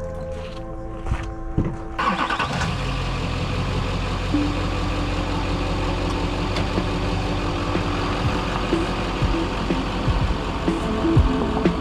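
Chevy K3500's Duramax V8 diesel engine starting about two seconds in and then running steadily with a low rumble.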